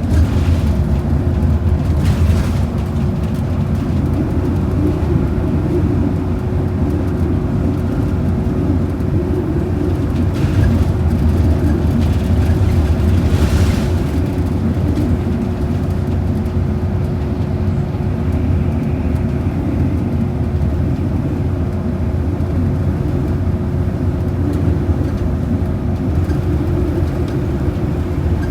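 Inside a moving transit bus: a steady low rumble of engine and road noise with a thin steady whine over it, and a few brief hissing swells, the loudest about thirteen seconds in.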